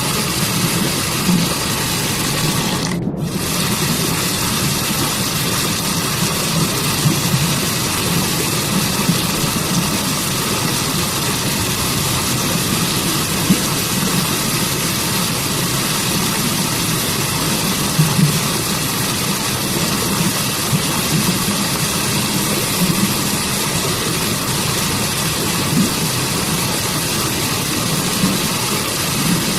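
Waterfall and stream water rushing steadily as a dense, even hiss. About three seconds in, the higher part of the sound briefly drops out for a split second.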